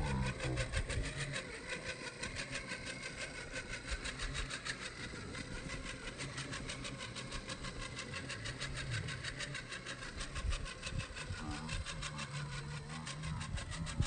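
RC crawler truck's electric motor and drivetrain whirring under load, with a fast, even pulsing. The audio is slowed to half speed, so it sounds low and drawn out.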